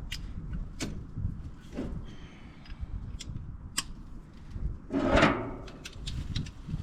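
Wrench and socket working on a wood chipper's blade bolts: a few sharp metal clicks and knocks, then a louder scraping clunk about five seconds in as the wrench is strained against the bolt.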